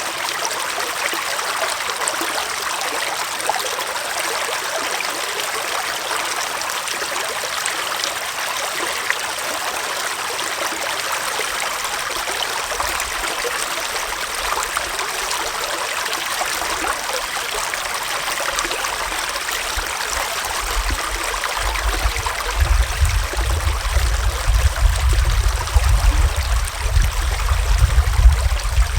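Forest stream running with a steady rush of water. About two-thirds of the way through, a low, uneven rumble comes in under it and grows louder.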